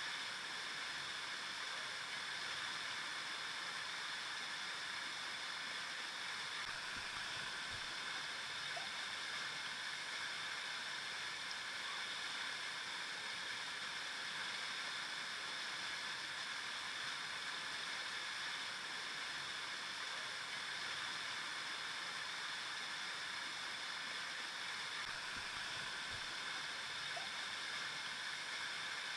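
River water flowing, a steady rushing hiss that never changes in level.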